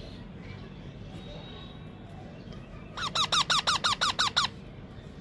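A baby Indian ringneck parakeet giving a rapid run of about ten squeaky calls about three seconds in, each call sliding down in pitch, lasting a second and a half.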